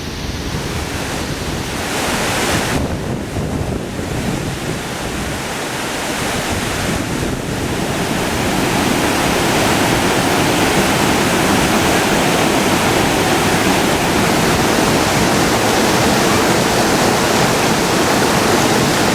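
Rushing water of the Krimml Waterfalls, a dense steady noise that grows louder over the first several seconds and then holds steady.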